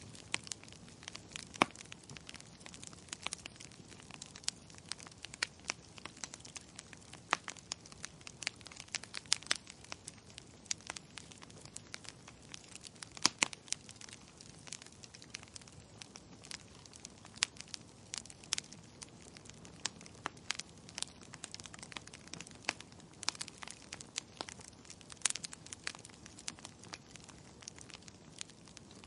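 Wood fire crackling: irregular sharp pops and snaps of burning firewood, several a second and some louder than others, over a soft steady hiss.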